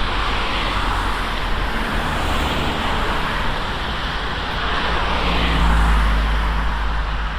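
Road traffic going by, with a vehicle passing close and loudest about six seconds in, its engine hum and tyre rush swelling and fading.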